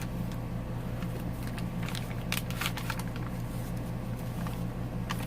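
Paper pages and a vellum envelope of a handmade journal being handled, with scattered light rustles and clicks over a steady low electrical hum.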